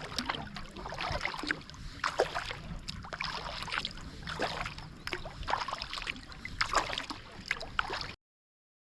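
Water splashing and slapping around a kayak, as a run of irregular small splashes over a steady hiss. It cuts off abruptly near the end.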